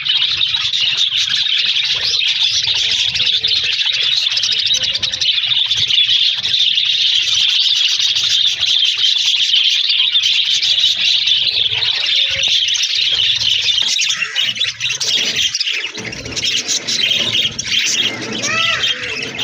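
A flock of budgerigars chattering and warbling continuously, a dense mass of high-pitched chirps.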